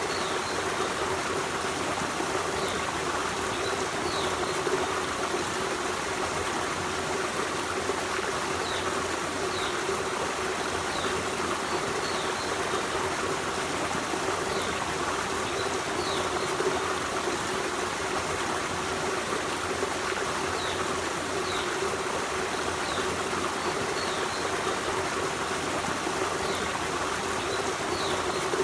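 Forest stream running steadily over rocks, a continuous babbling and trickling rush of water. Faint short high notes come in now and then.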